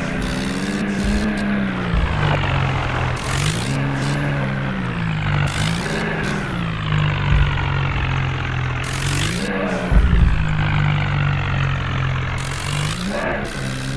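Tractor diesel engine running steadily, its pitch rising and falling back several times as the revs go up and down under load, with brief hissing bursts now and then.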